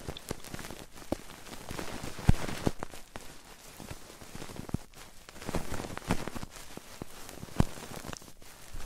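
Fingers tapping, flicking and rubbing close against an ASMR microphone's ears: irregular soft taps and crackly scratching, with a few sharper taps.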